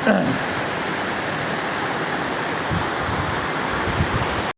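Steady rush of flowing river water, with a few faint low thuds in the second half; it cuts off abruptly near the end.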